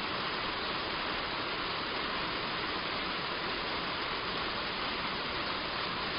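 Heavy rain falling steadily on a roof, an even hiss with no breaks or rises.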